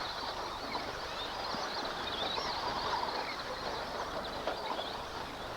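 Several radio-controlled off-road racing trucks' motors whining together, their high pitches wavering up and down as the trucks are driven around the track.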